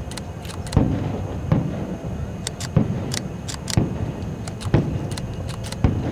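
Aerial fireworks shells bursting: deep booms about once a second, sharper cracks between them, over a continuous low rumble.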